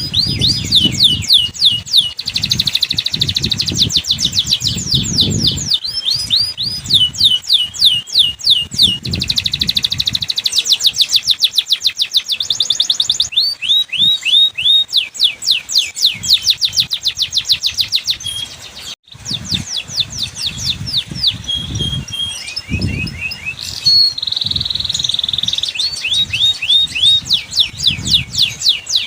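Domestic canary singing a long, continuous song of rapid trills and rolling tours, used as a lure song to set other canaries singing. The song breaks off for a moment about two-thirds of the way through.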